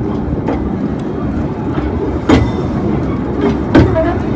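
Busselton Jetty train running along the jetty: a steady rumble from the moving carriage, with a few sharp clacks from the wheels on the track, the loudest about halfway through and again about a second before the end.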